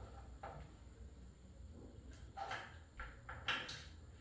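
Faint, scattered clicks and light knocks of engine parts and tools being handled during assembly, about six over a few seconds.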